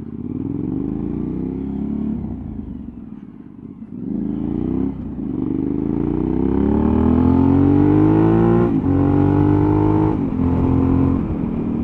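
Suzuki V-Strom 1000's V-twin engine pulling under acceleration, revs rising in several pulls broken by short gaps where it shifts up, then running steadier near the end.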